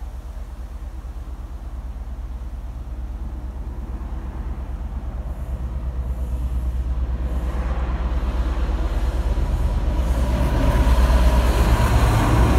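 A train approaching, its deep rumble growing steadily louder, with rail and wheel noise building from about eight seconds in.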